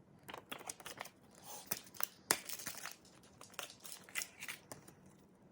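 Plastic and paper album packaging crinkling and tearing in quick, irregular crackles as it is handled and opened.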